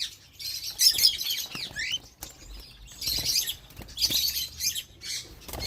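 Small birds chirping in repeated bursts of high, quick notes, with a short rising note just before two seconds in.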